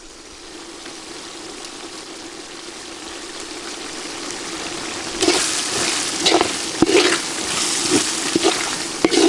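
Tomato-and-spice masala sizzling in hot oil in a metal pot, the sizzle growing steadily louder. From about five seconds in a steel ladle stirs it, with irregular scrapes and clicks against the pot.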